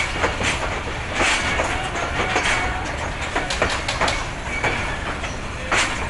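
Passenger train coaches rolling over rail joints and points: irregular clicks and clunks, several a second, over a steady rumble, with a faint squeal from the wheels now and then.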